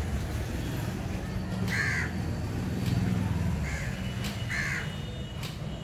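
A bird calling with three short caws, about two seconds in, then twice more close together near the end, the middle one fainter, over a steady low rumble.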